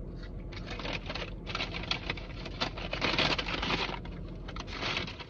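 Irregular rustling and crinkling with many small clicks, loudest about three seconds in, over a steady low hum.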